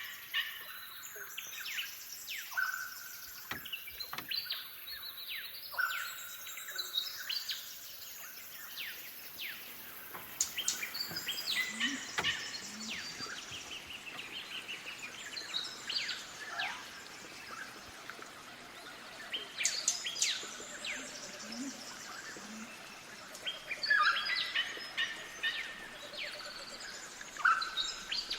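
Birds chirping and calling: many short chirps and quick down-sweeping notes, repeated throughout.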